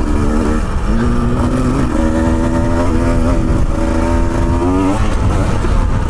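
Motorcycle engine running with changing revs, its pitch shifting in steps and rising sharply about four and a half seconds in before dropping again, over heavy wind rumble on the microphone.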